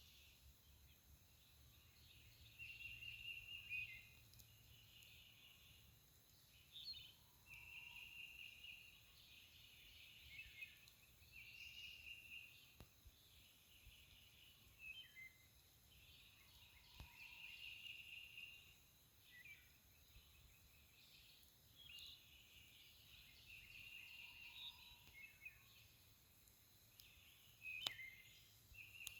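Faint songbirds singing: one short trilled phrase repeated every two to three seconds, with other birds' brief chirps and calls between.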